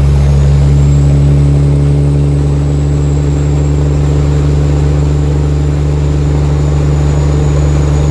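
Caterpillar C-15 6NZ inline-six diesel with 7-inch straight pipes, running loud at a steady pitch, with a faint high whistle above the exhaust note.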